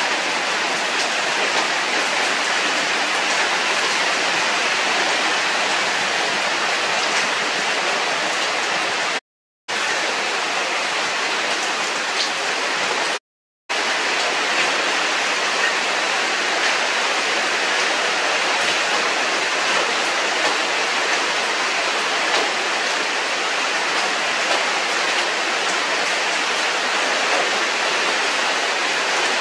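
Heavy rain falling, a steady loud hiss, broken twice by short silent gaps about ten and fourteen seconds in.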